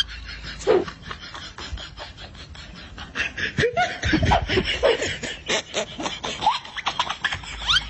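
People laughing in quick, repeated bursts, busiest from about three seconds in.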